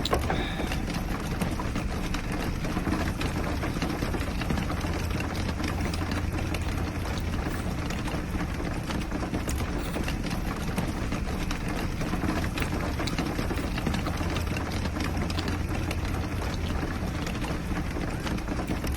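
Steady rain falling on the roof of a small camper: a continuous hiss full of small scattered drop ticks, over a steady low hum.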